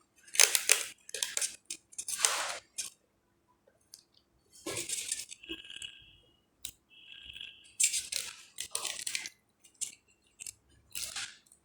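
A tomato being rubbed over a metal hand grater and reduced to purée: a series of short, irregular scraping strokes with brief pauses between them.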